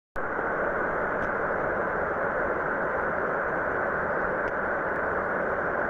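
Steady rushing roar of a waterfall pouring into a pool.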